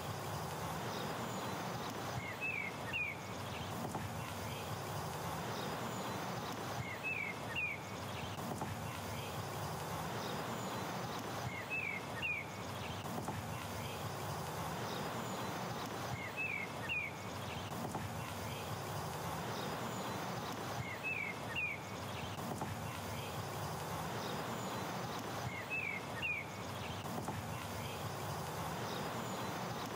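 A bird repeating a short phrase of three or four high chirps about every four and a half seconds, over a steady outdoor background hum.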